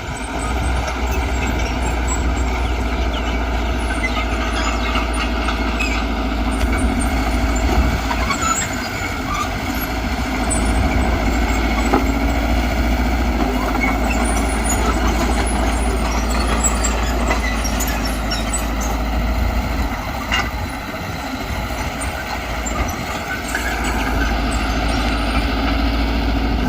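Diesel engines of a bulldozer and dump truck running steadily under work.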